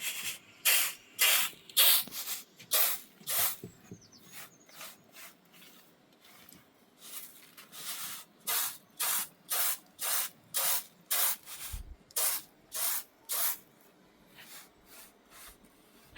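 Repeated short swishing strokes at about two a second, like something being swept or scrubbed by hand. They weaken for a few seconds in the middle, come back strong and regular, and grow faint near the end.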